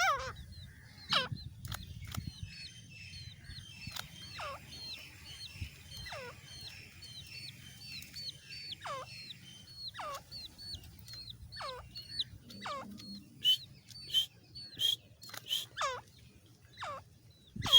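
Grey francolin (teetar) calling: a run of short, shrill, hooked notes repeated about twice a second, with falling whistled notes about once a second. The calls grow louder and sharper over the last few seconds.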